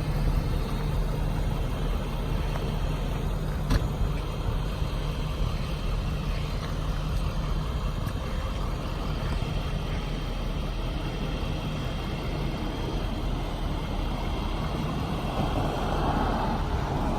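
Ford 6.7-liter Power Stroke turbo-diesel idling steadily with the PTO engaged to drive the boom's hydraulic pump. A single sharp click about four seconds in, and a hiss builds near the end.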